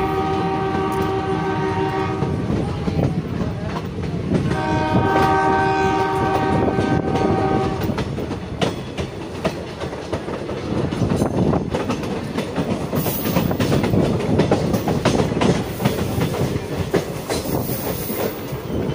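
Moving Indian Railways passenger train: the horn sounds two long steady blasts, the second ending about eight seconds in. After that the wheels rumble and clatter over rail joints and points as the train crosses from the junction tracks onto the main line.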